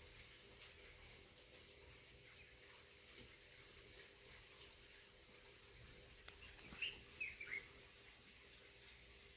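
A bird calling: quick runs of three or four short high chirps, about half a second in and again near four seconds, then a few lower falling notes around seven seconds, over a faint steady hum.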